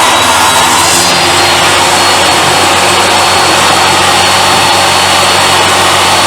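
Table saw running steadily with a motor whine. Its blade finishes a cut through wood about a second in and then spins free.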